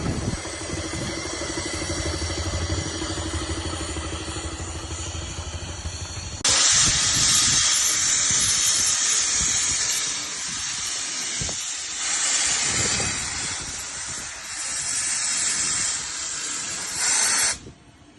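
A steam engine venting steam: a low rumble, then about six seconds in a sudden loud hiss that swells and dips for about eleven seconds before cutting off sharply.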